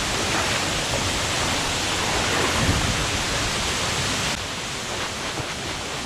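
Steady rush of a waterfall, a dense even hiss of falling water that eases slightly about four seconds in.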